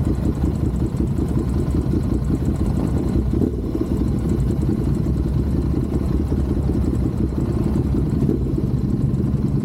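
Motorcycle engine running steadily, a low, even rumble.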